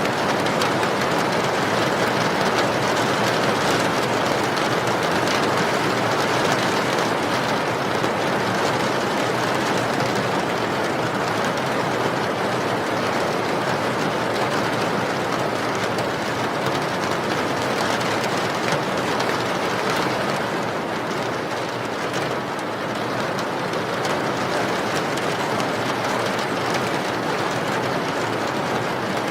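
Steady, continuous rain noise with no breaks, dipping slightly for a moment past the middle.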